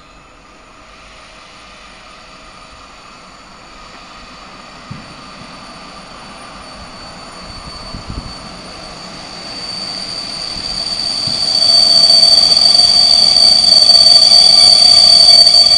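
PKP Class EP07 electric locomotive hauling a passenger train as it approaches along the track. The train noise grows louder from about nine seconds in, and a high, steady whine rises over it as the locomotive draws close.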